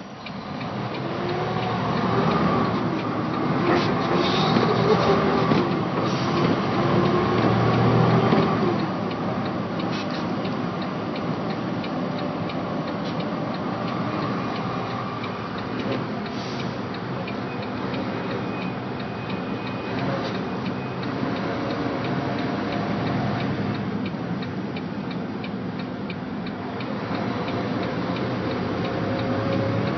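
Semi truck's diesel engine running under way, its pitch climbing and dipping as it pulls hard in the first several seconds, then settling into a steadier drone.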